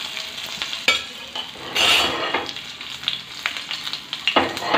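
Chopped garlic, cumin seeds and asafoetida frying in hot oil in a metal kadhai: a steady sizzle, with a spatula stirring against the pan and louder scrapes about two seconds in and near the end.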